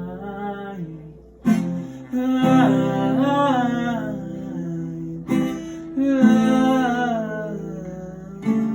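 Acoustic guitar strummed in slow chords, a fresh chord struck three times, with a wordless sung vocal line sliding up and down in pitch over it.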